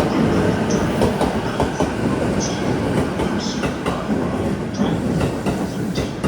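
A train running on the rails: a steady loud rumble with scattered clicks and short high squeaks from the wheels.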